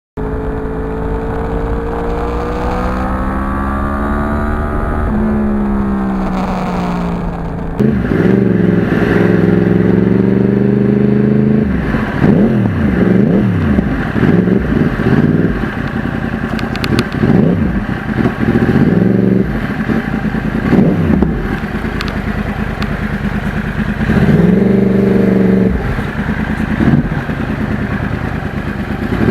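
2009 Yamaha R1 crossplane inline-four running through a custom exhaust under way, the revs climbing and falling again and again as it accelerates and shifts. It gets louder about eight seconds in, with quick rev swings in the middle stretch.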